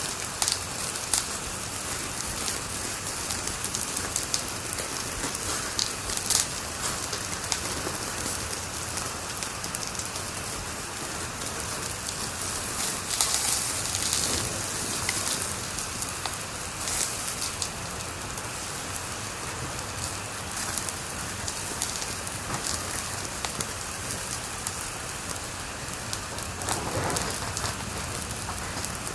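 Wood fire crackling in a fireplace: a steady hiss with frequent sharp pops and snaps, a denser run of pops about halfway through.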